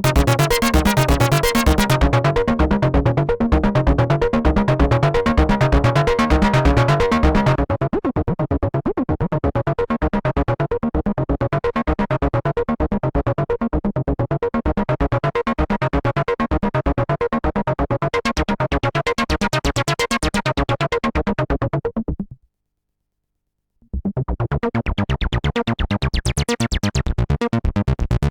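Behringer TD-3-MO acid bass synth playing a fast sequenced pattern of repeated notes while its filter brightness shifts and sweeps. It gets duller and a little quieter about seven seconds in, stops for just over a second near the end, then comes back with the filter sweeping brighter.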